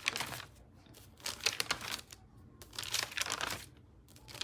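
Paper notebook pages being turned one after another, three or four short rustles of paper about a second apart.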